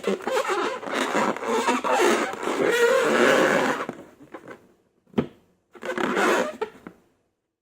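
Slime being mixed and squished, a dense crackle of sticky clicks for about four seconds, then a single click and a short second burst of squishing before it stops.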